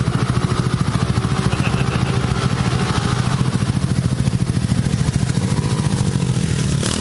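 Honda Cub's four-stroke horizontal single-cylinder engine running steadily, with a fast, even beat of firing pulses.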